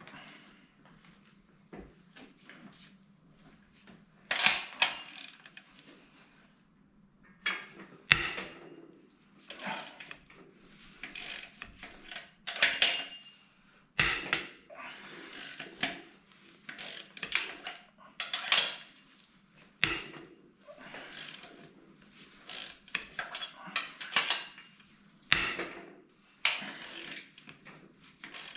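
Hand tools and metal engine parts being handled during an engine strip-down: a string of clinks, knocks and short scraping sounds, some sharp, over a faint steady hum.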